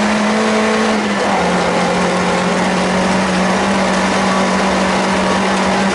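Volvo 142S four-cylinder engine running hard at high, steady revs, heard inside the cabin over loud road noise. Its pitch drops a little about a second in, then holds steady.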